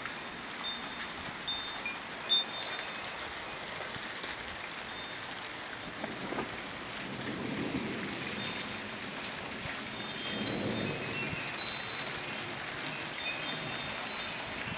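Steady rain falling during a thunderstorm, with two low rumbles of distant thunder swelling up about halfway through and again a few seconds later. A single sharp tap stands out about two seconds in.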